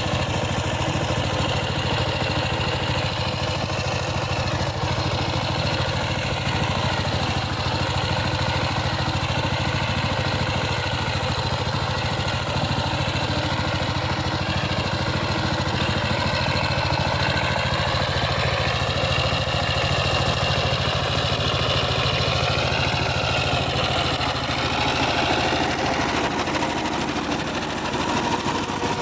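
Power tiller engine running steadily at idle, a constant low hum.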